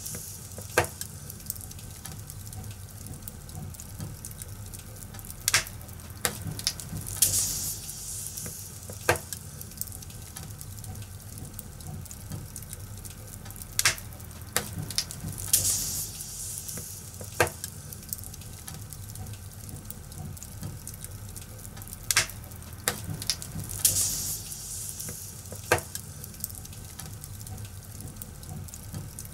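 Fire crackling: sharp pops and snaps every second or two over a low steady rumble, with a soft hiss swelling up about every eight seconds.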